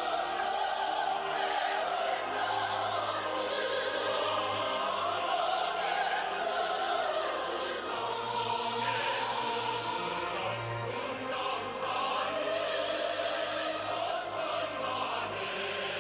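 Choir singing long held notes with orchestral accompaniment, in an operatic style.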